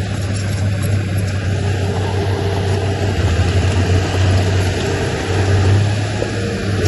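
Heavy diesel earthmoving engine of a bulldozer or dump truck running steadily under load, with a deep, even drone.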